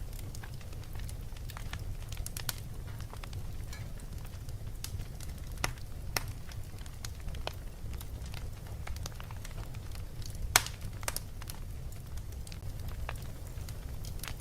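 Wood fire crackling in a fireplace: scattered sharp pops and snaps, one louder pop a little past halfway, over a steady low rumble.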